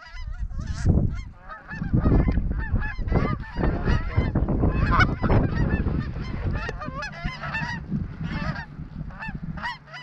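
A flock of Canada geese honking, many overlapping calls at once as the flock comes in close, over a low rumble of wind on the microphone.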